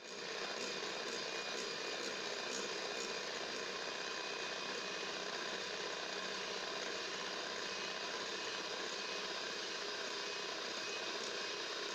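Electric hand mixer running steadily, beating oil into a whipped egg-and-sugar cake batter.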